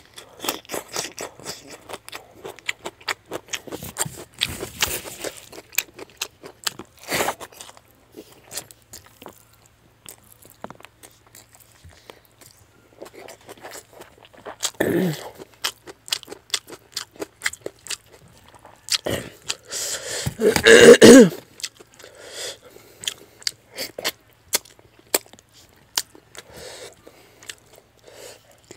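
Close-up chewing of a mouthful of fish head curry and rice eaten by hand, with many short wet clicks. One louder burst comes about two-thirds of the way through.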